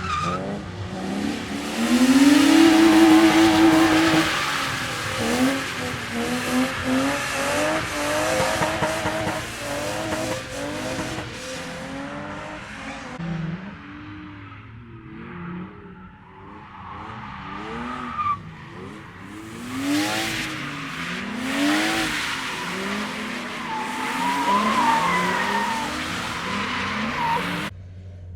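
Drift cars sliding through corners: engines revving hard, their pitch swinging up and down with the throttle, over sustained tyre squeal. Loudest about two to four seconds in; the sound cuts off abruptly near the end.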